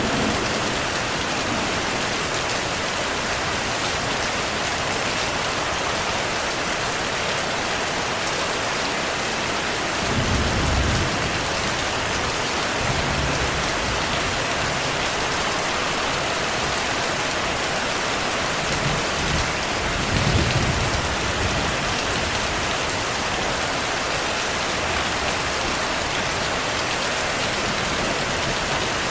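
Steady heavy rain hissing, with two low rumbles of distant thunder, about ten seconds in and again around twenty seconds in.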